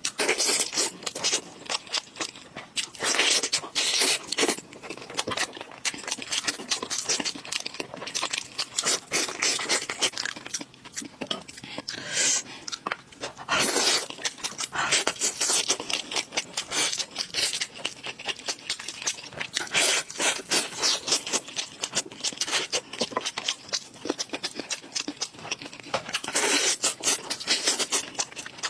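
Close-miked eating: food being bitten and chewed with a dense, uneven run of crisp crunches and wet clicks.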